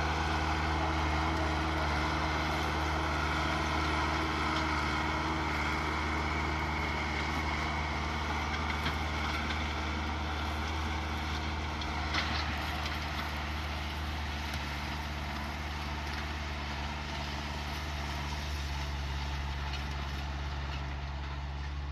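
Massey Ferguson 3080 tractor's diesel engine running steadily at idle, with a brief click about halfway through.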